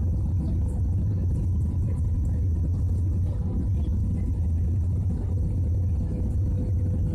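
Steady low drone of an airliner cabin in flight, with a faint constant whine over it.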